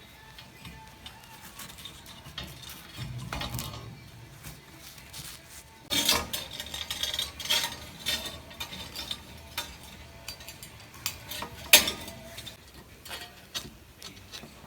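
Steel pieces clinking and scraping against each other as they are handled, with one sharp metal clank late on.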